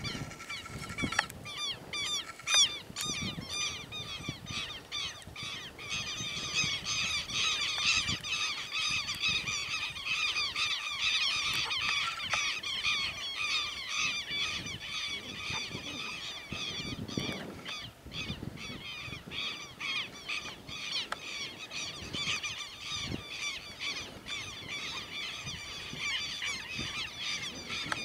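Birds calling in rapid, repeated short notes, several overlapping, without a break.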